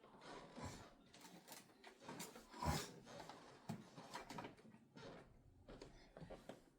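Faint, scattered knocks, taps and rubbing sounds of things being handled, with one louder knock a little under three seconds in. No vacuum cleaner is running.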